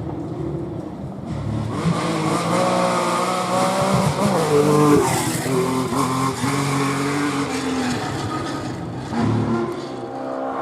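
Historic rally car driven hard past the roadside: the engine revs high, its pitch climbing and dropping back several times, and it is loudest about four to five seconds in.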